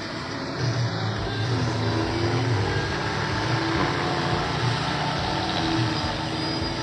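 Car on the move: a steady rushing hiss with a low hum underneath.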